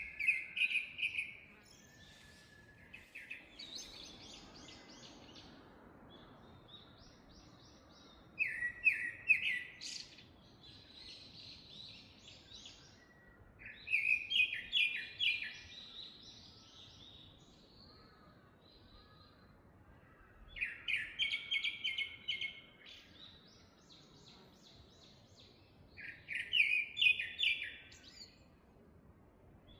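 Wild songbirds singing in a forest: one bird repeats a short, loud phrase of rapid notes about every six seconds, five times, with fainter songs of other birds in the gaps.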